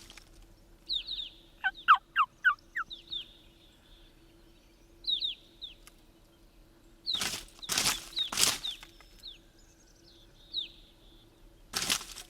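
Wild turkey gobbles: three loud ones close together about seven seconds in and another starting near the end. About two seconds in there is a quick run of five falling yelps, and short high songbird chirps are scattered between.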